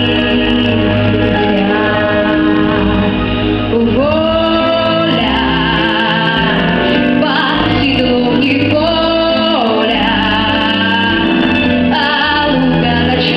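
A woman singing a song with instrumental accompaniment, holding long notes with vibrato.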